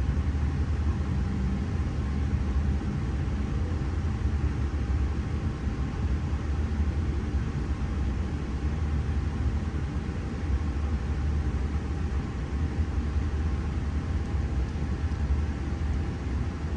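Steady low rumble and running noise of V set V9, a Sydney double-deck intercity electric train, in motion and heard from on board, with a faint steady tone above the rumble.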